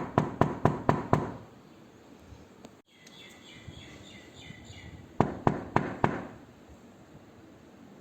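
Knocking on a door: a quick run of about six knocks, then after a pause a second run of about five, each run at roughly four to five knocks a second. Faint bird chirping is heard in the gap between the runs.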